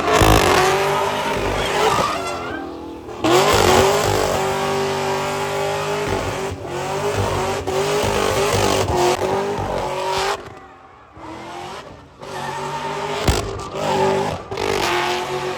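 Car doing a burnout: the engine is held at high revs in long steady pulls with the tyres spinning and squealing. It eases off briefly between pulls, twice.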